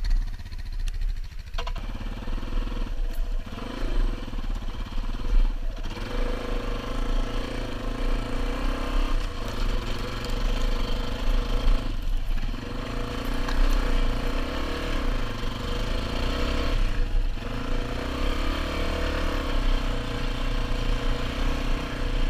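Single-cylinder dual-sport motorcycle engine running under load, revving up and easing off several times.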